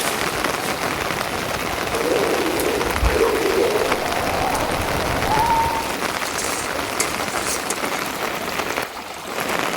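Steady rain falling, an even hiss throughout. In the middle, a faint wavering call rises slowly in pitch, and the rain sound briefly drops away near the end.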